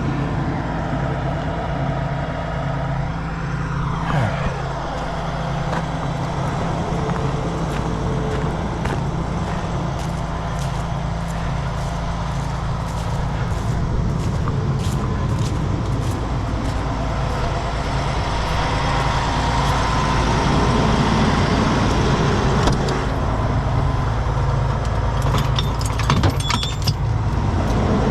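Heavy truck's diesel engine running steadily with a low drone, with scattered clicks and rattles through the middle and a short burst of them near the end.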